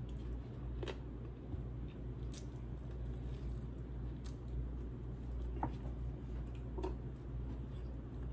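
Close-up eating sounds: a person chewing a mouthful of chicken curry and rice, with a handful of short, wet mouth clicks and smacks spread through, over a steady low hum.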